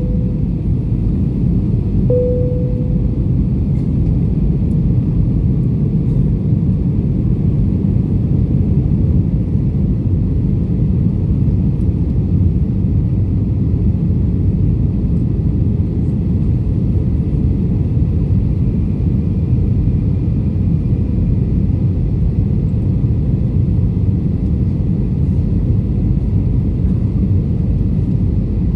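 Airbus A320 jet airliner's steady, unchanging low rumble of engines and airflow, with a brief single tone about two seconds in.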